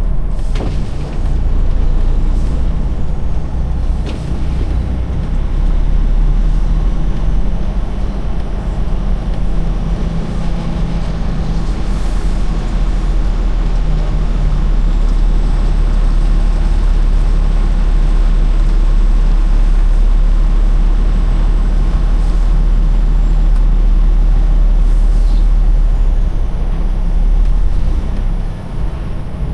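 Semi truck's diesel engine running at low speed as the flatbed rig pulls in and manoeuvres, a steady low rumble that eases briefly near the end.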